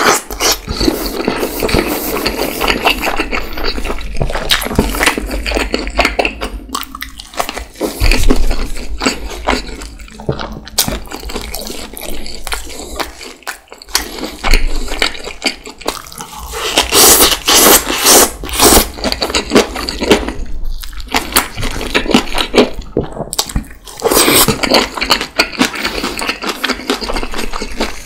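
Close-miked wet chewing and mouth sounds of eating juicy lamb dumplings and broth-soaked bread: dense sticky smacks and squelches.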